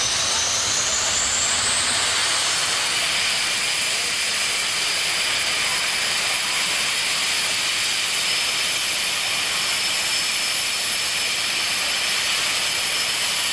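Turbine engine of a jet drag-racing car running, a loud steady hiss with a high whine that rises over the first two seconds and then holds level.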